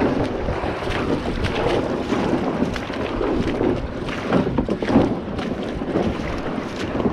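Water splashing and rushing around a moving kayak, with wind buffeting the microphone.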